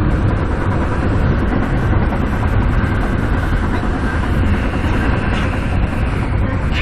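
Steady rumble and rail noise of a Metra commuter train running along the track, heard from on board.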